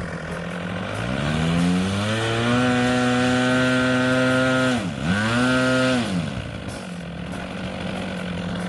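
OS 1.20 AX two-stroke glow engine of an RC model airplane, swinging a 16x8 propeller, is throttled up from idle to a steady high-pitched full-throttle run. About five seconds in it is chopped for a moment and goes straight back up, then it is throttled back down to idle.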